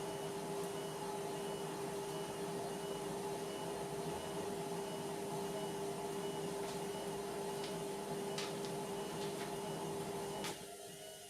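Indesit washing machine running mid-cycle: a steady motor hum with a faint regular ticking and a few clicks, which cuts off abruptly near the end, leaving a much quieter background.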